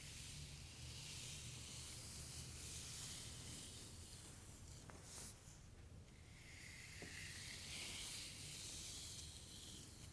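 Two slow, soft strokes through hair, each a long hiss of a few seconds, with a faint tap between them.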